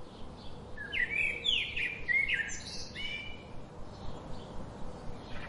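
Northern cardinal singing: a quick run of about six slurred, sweeping whistled notes between about one and three seconds in, followed by fainter calls.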